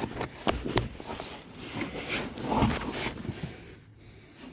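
Metal clinks and rubbing of ratchet sockets being handled and tried for size, with a few sharp clicks in the first second.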